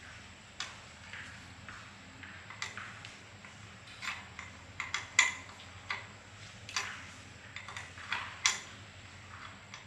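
Light metallic clinks and taps of hand tools and small metal engine parts being handled, coming at an irregular pace, with the sharpest clinks a little past the middle and near the end.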